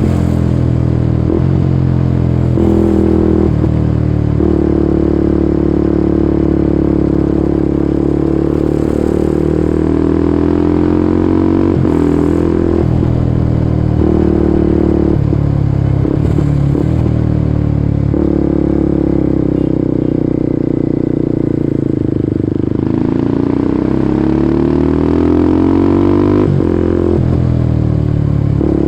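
Kawasaki Ninja 250SL's single-cylinder engine through a KEA Speed NA 1 aftermarket exhaust, ridden under way: the revs climb and drop with several quick gear changes, sink steadily for several seconds about two-thirds through as the bike slows, then rise again as it pulls away.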